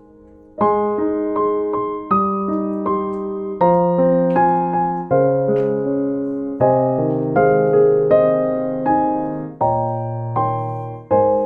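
Background piano music: chords struck at a gentle, even pace, each ringing and fading before the next.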